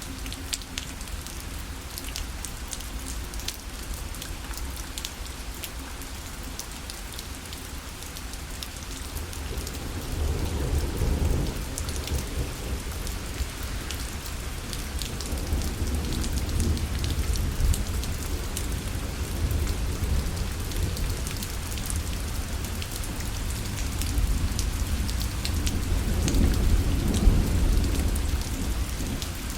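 Steady rain pattering on a parasol, with many fine drop ticks. Low rumbles of thunder swell up about ten seconds in and again through much of the second half.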